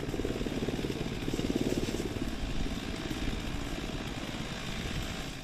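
Firefighting aircraft running close by, its engine and blades giving a fast, even pulsing beat; the sound fades out at the end.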